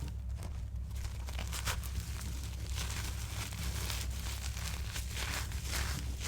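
Blocks of reformed gym chalk crushed by hand, crunching and crumbling in irregular grainy bursts, with a steady low hum underneath.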